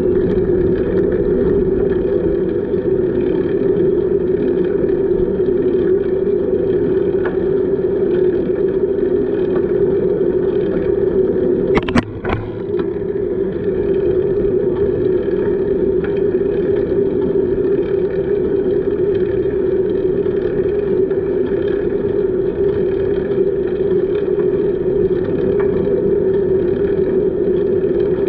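Steady wind and rolling noise on a camera carried on a moving bicycle, with one sharp knock about halfway through.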